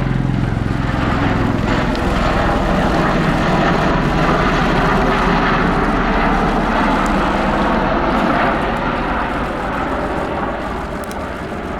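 CV-22B Osprey tilt-rotor passing at speed, its turboshaft engines and big proprotors making a loud, steady roar that eases off a little after about eight seconds.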